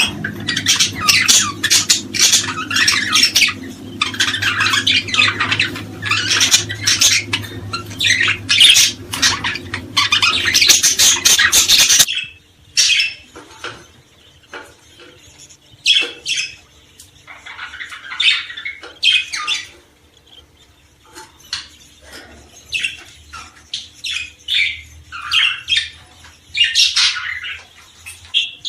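Small songbirds chirping and squawking in a dense, busy chorus. About twelve seconds in the sound cuts abruptly to sparser, scattered calls.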